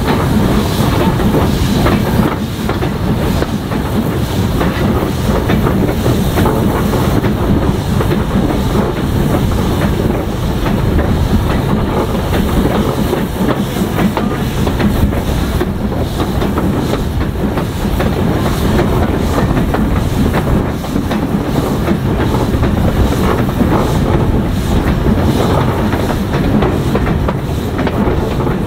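Steam-hauled train behind S&D 7F 2-8-0 locomotive 53809 running steadily, the wheels clattering over the rail joints.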